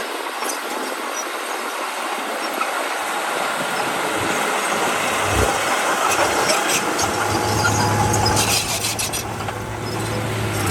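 Heavy earthmoving machinery at work: a diesel engine running under a broad rushing, clattering noise, with a steady low engine hum coming in about seven seconds in and a short burst of metallic rattling around the nine-second mark.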